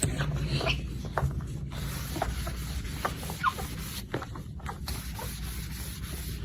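A parrot making scattered short chirps and clicks, a few a second apart, over a steady low hum.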